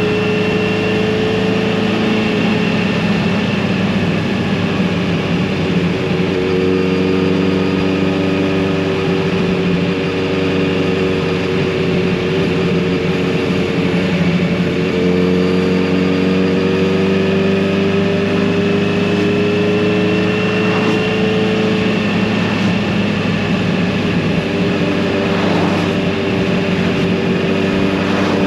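Kawasaki Z900RS inline-four engine and exhaust running steadily while the bike cruises, its pitch drifting slowly up and down with small changes in throttle.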